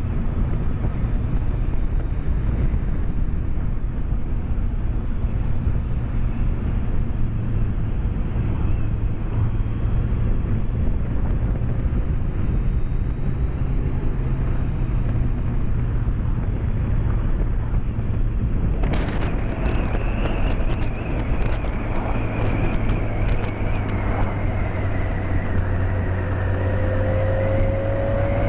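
BMW K1200S inline-four engine running at a steady cruise, with wind and road noise on the helmet-mounted microphone. About two-thirds of the way through the sound turns brighter and harsher, with a whistling tone, and near the end a tone rises in pitch.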